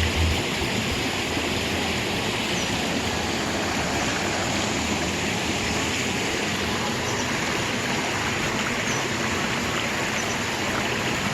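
Mountain valley stream rushing steadily over rocks, a dense even rush of water. A few low rumbles at the very start.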